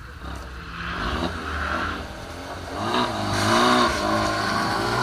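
Honda Civic's engine revving on the start line before a launch. The revs climb, then waver up and down as they are held high, and get louder toward the end.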